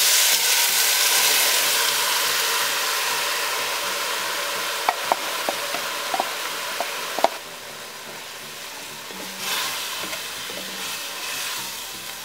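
Chicken, garlic, ginger and onion sizzling in hot oil in an enamelled pot as dry rice is poured in, the sizzle loud at first and slowly fading. A few sharp clicks come around the middle, and a wooden spoon stirs the rice in near the end.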